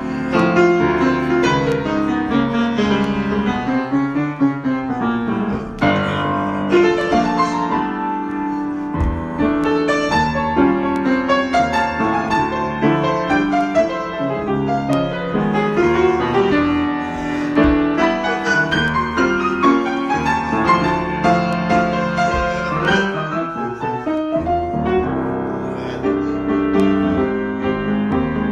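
Solo piano improvisation played continuously, with full chords and a steady stream of notes and no pauses.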